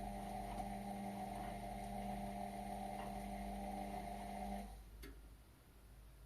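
Indesit washing machine's drain pump humming steadily, then cutting out about two-thirds of the way through, followed by a single click from the machine.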